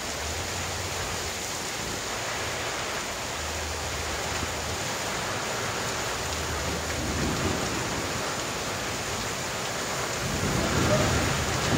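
Heavy tropical rain pouring steadily onto a flooded street and roofs. Near the end, a low rumble swells as a motorbike comes up the lane through the rain.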